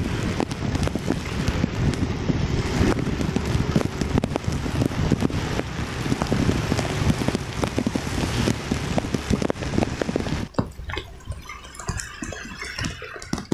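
Heavy rain heard from a moving motorcycle: a dense rushing noise with many sharp raindrop ticks on the phone's microphone. About ten and a half seconds in, the rushing noise drops suddenly, leaving fainter scattered drops.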